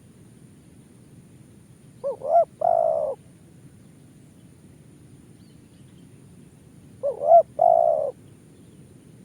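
Spotted dove cooing twice, about five seconds apart: each call is two short notes and then a longer, rolling coo.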